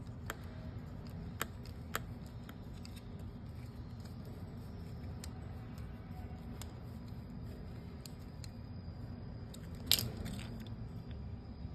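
Scattered small clicks and taps of parts being handled while a display is taken apart or assembled, with one sharper click about ten seconds in, over a steady low hum.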